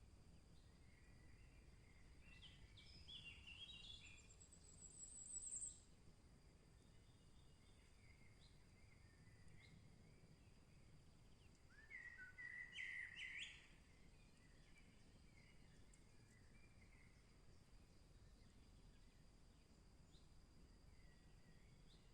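Forest songbirds singing faintly: a short song about three to six seconds in that ends in a high rising trill, and a louder burst of chirps about twelve seconds in, with scattered quieter calls between. A steady low background hiss and a faint constant high tone run underneath.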